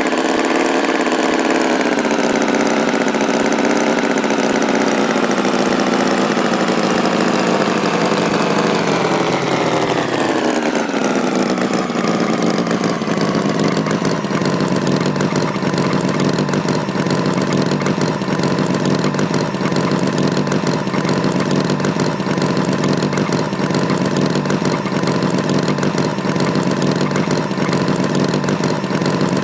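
Tractor engine running, its revs dropping about ten seconds in and then holding at a steady idle.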